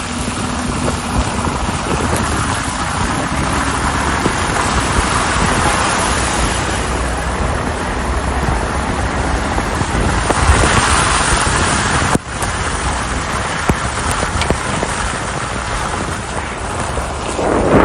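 Car driving on a snowy, slushy road: steady tyre and road noise with a low rumble, dipping briefly about twelve seconds in.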